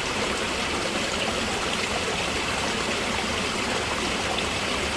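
Water running steadily down a backyard rock waterfall, an even rush of splashing water.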